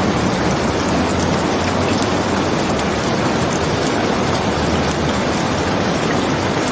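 Steady heavy rainfall, a dense even hiss with a deep low rumble beneath it and a few faint scattered ticks.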